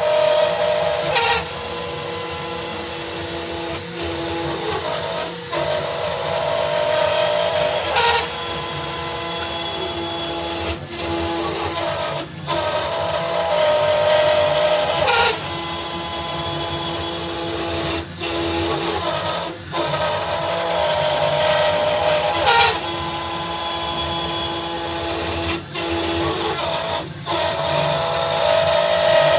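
Sainsmart 4040 Pro desktop CNC router's spindle cutting a relief carving: a steady motor whine with shrill, sustained screeching tones from cutter chatter. The pitch and load dip and change every one to three seconds as the bit changes direction between passes.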